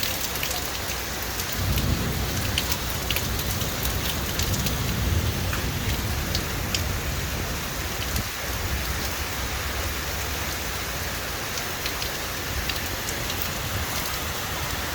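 Heavy rain falling steadily, with scattered sharp drop ticks, and a low rumble of thunder that comes in about one and a half seconds in and rolls on for several seconds before fading.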